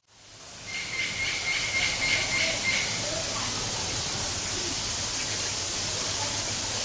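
A bird giving a high, even trilling call from about one to three seconds in, over a steady hiss; a few faint short chirps follow.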